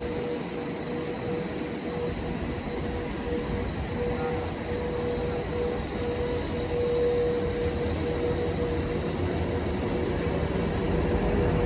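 Train running along the line: a steady rumble with a wavering whining tone, growing a little louder near the end.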